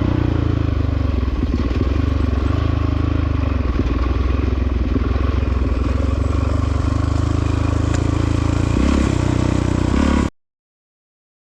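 Honda CRF450RWE's 450 cc single-cylinder four-stroke dirt bike engine running as it is ridden, its pitch rising and falling with the throttle, with rattle and scrape from the ride. The sound cuts off abruptly near the end.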